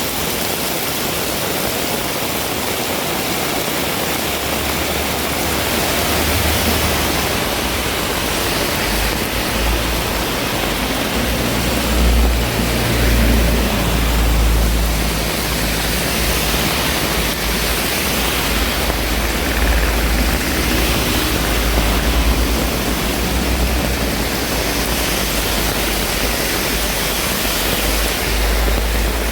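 Heavy rain pouring steadily, with a low rumble of wind on the microphone that sets in about eight seconds in.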